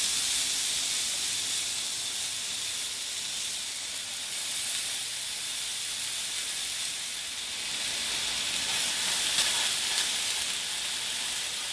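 A steady high-pitched hiss with small swells and no clear rhythm.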